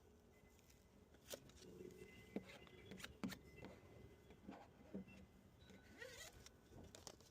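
Faint, scattered ticks and short squeaks of a plastic squeegee pressing a vinyl sticker onto textured sheet steel.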